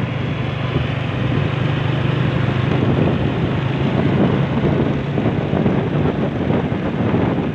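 Motorcycle engine running steadily, its low hum held at an even pitch, under heavy wind noise on the microphone.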